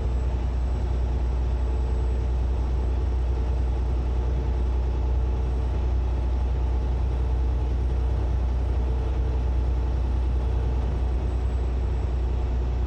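Semi-truck's diesel engine and road noise heard inside the cab while cruising: a steady, deep drone that holds level throughout.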